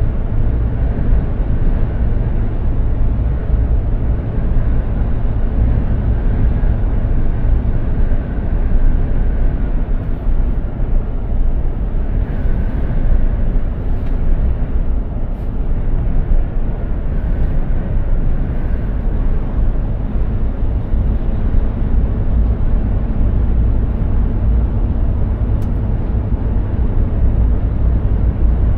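Mercedes-Benz Actros 2763 truck on the move: a steady low drone of engine and road rumble that holds even throughout.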